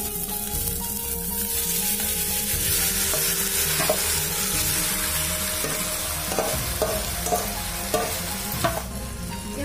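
Marinated chicken sizzling as it fries in hot mustard oil in a clay pot, the hiss building about a second in, with a spoon stirring it and knocking against the pot now and then.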